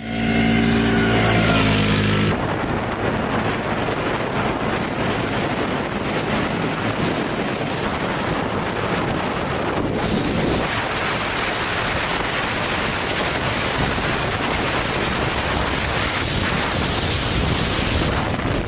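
Quad bike engine running, then wind buffeting the microphone from about two seconds in and largely covering it.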